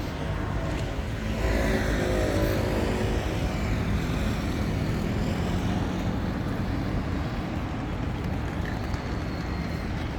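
City street traffic: cars driving past over a steady low hum, with one vehicle passing close about a second and a half in.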